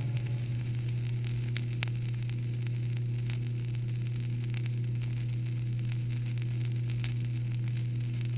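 Quiet stretch on a vinyl LP of an orchestral recording: a steady low drone with faint held tones above it, and scattered clicks of record surface noise.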